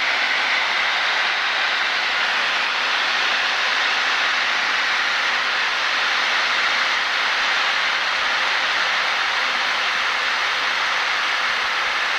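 Steady, even hiss of light-aircraft cockpit noise, engine and airflow, as picked up through the headset intercom during the final approach to landing.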